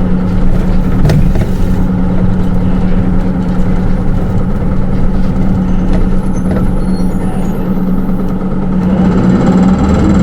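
Cabin sound of a Hino Rainbow II automatic-transmission diesel city bus under way: a steady engine drone with road rumble, and a short click about a second in.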